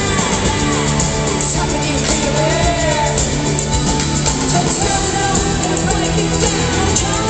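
A live rock band playing loud amplified music in an arena, heard from the audience.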